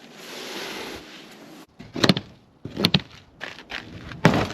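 Hood of a frost-covered 1955 Pontiac being opened: a rustling hiss for over a second, then a few sharp clunks and creaks, about two, three and four seconds in, as the frosted hood is released and lifted.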